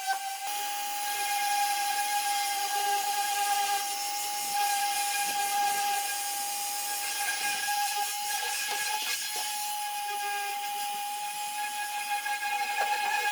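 A high-speed electric motor running steadily with a high-pitched whine and a hiss. The machine is a power tool or the cutting machine's motor at speed.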